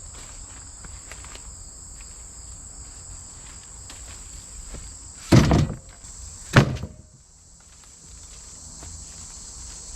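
Two heavy wooden thuds about a second apart, midway, like cut firewood rounds being dropped or tossed down, over steady insect chirring.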